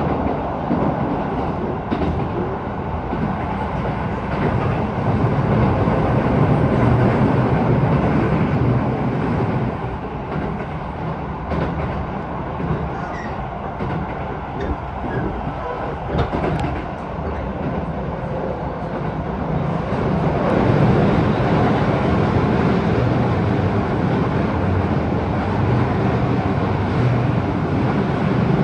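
Keisei 3000 series electric train running, heard from inside the passenger car: a steady rumble of wheels on rails, with a few sharp clicks, quieter for a stretch in the middle.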